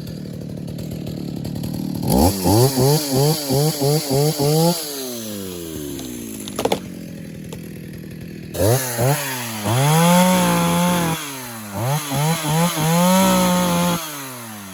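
Vintage Partner P70 two-stroke chainsaw running near idle, then revved in a quick string of short throttle blips that fall back between them. After a few seconds of winding down it revs again, held at high speed for about a second at a time.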